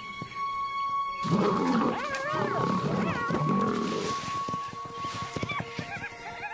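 Lionesses growling and snarling at a carcass, one loud rough growl lasting a few seconds starting about a second in, then quieter short snarls.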